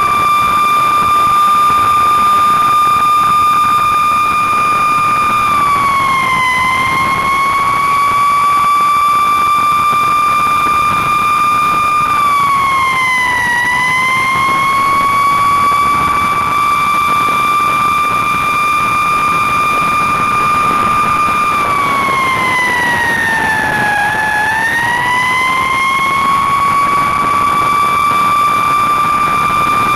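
Fire engine siren sounding a steady high tone, which sags in pitch and winds back up three times, about six seconds in, thirteen seconds in and deepest about twenty-four seconds in.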